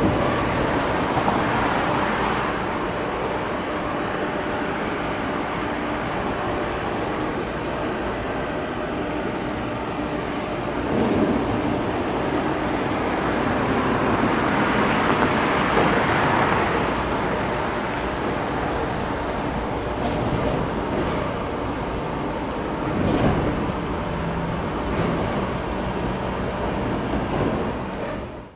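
Freight cars of a Union Pacific tie train rolling past on the rails, mixed with road traffic on a parallel road, a steady noise that swells now and then as vehicles go by. The sound fades out sharply at the very end.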